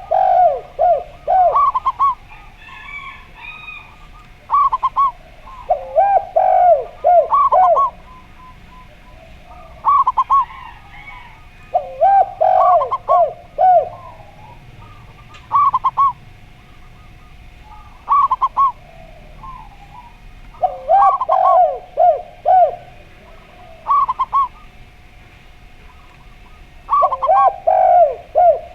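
Zebra dove and spotted dove cooing against each other: bursts of quick, hooked coo notes, some higher and some lower-pitched, coming every few seconds.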